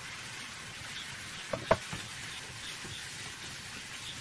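Ground beef, onions and chopped peppers sizzling in a frying pan, a steady hiss, with a couple of sharp clicks about one and a half seconds in.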